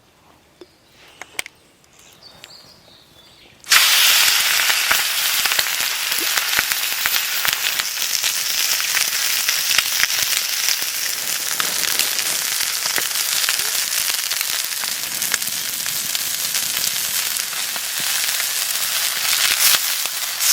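Food starts sizzling loudly in a hot pan over a campfire, cutting in suddenly about four seconds in and frying hard and steadily from then on. The pan is over a fire that the cook says was too strong, and the food burnt.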